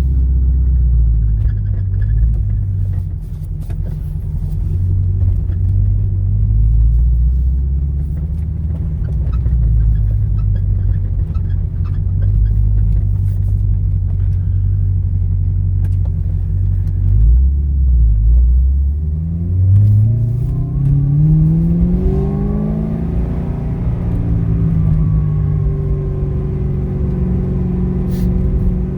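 2010 Corvette ZR1's supercharged 6.2-litre V8 rumbling at low revs while the car is driven. About two-thirds of the way in the engine note rises as the car accelerates, then holds steady at the higher pitch.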